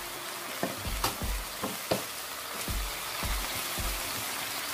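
Tuna filling with onion and diced bell peppers sizzling steadily in a non-stick wok, with a spatula stirring and knocking against the pan several times in the first couple of seconds.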